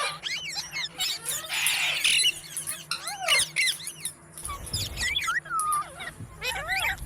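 Rose-ringed parakeets (Indian ringneck parrots) chirping and chattering: many short, squeaky calls that rise and fall in pitch, overlapping in quick succession. A low rumble joins in from about halfway.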